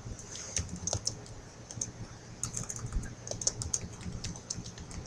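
Typing on a computer keyboard: quick, irregular key clicks in short runs.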